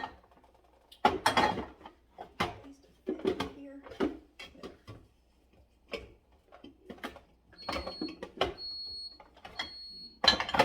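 Bottles and jars clinking and knocking as they are handled and set onto fridge shelves, a series of separate clicks and knocks. A high, thin beep sounds three times in quick succession near the end.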